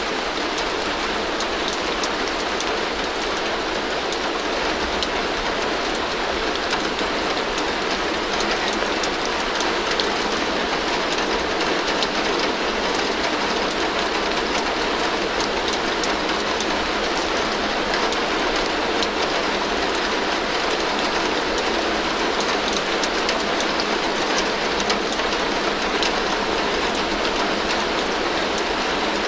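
Heavy rain falling steadily on a tin roof: a dense, even patter with single drops ticking through it.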